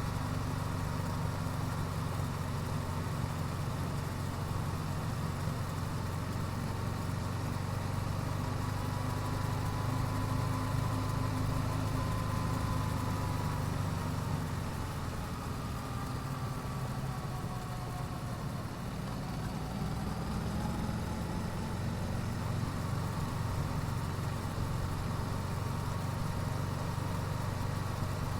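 Yamaha YZF-R7's 689 cc parallel-twin engine running steadily at low, even revs through the stock exhaust. Loudness dips slightly about halfway through.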